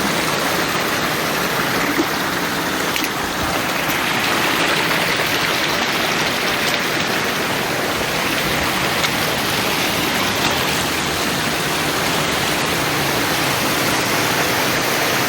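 Rushing river water, a steady, unbroken rush.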